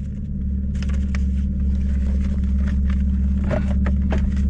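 Straight-piped 2010 Camaro SS 6.2-litre V8 idling with a steady deep drone, heard from inside the cabin, with scattered small clicks and rustles over it.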